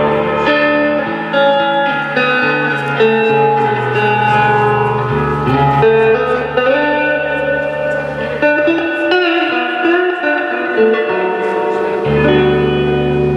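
Live guitar music: strummed guitar chords ringing and changing every second or so over a line of low notes, played without singing.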